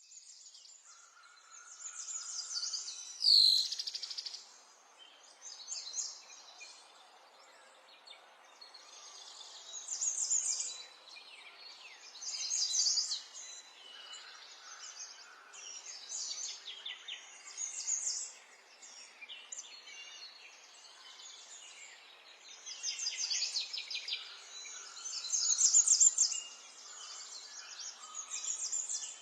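Small songbirds singing: bursts of rapid, high chirping phrases every few seconds, with a sharp descending note about three and a half seconds in and the loudest singing near the end.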